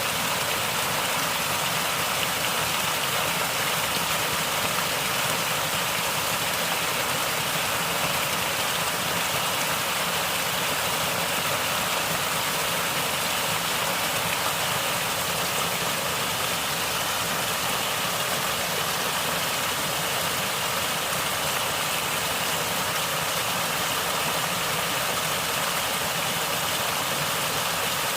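Natural running water gurgling, an even, unbroken rush.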